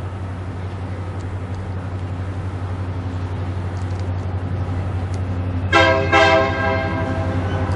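Diesel locomotive approaching, its engine drone slowly building, then sounding its air horn in a quick double blast about six seconds in.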